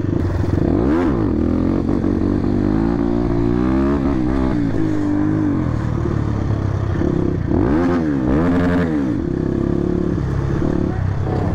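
Motorcycle engine running while riding, its revs rising and falling repeatedly, with two marked rev swells about a second in and again around eight to nine seconds.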